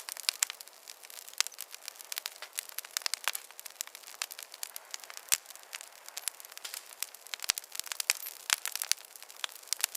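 Wood fire in a fireplace crackling: a steady hiss with dense, irregular sharp pops and snaps, a few louder ones standing out.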